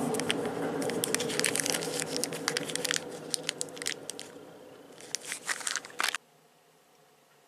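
Lionel O gauge Percy locomotive running on its track: a steady electric motor hum with rapid irregular clicking from the wheels over the rails. It grows fainter over a few seconds and then cuts off abruptly.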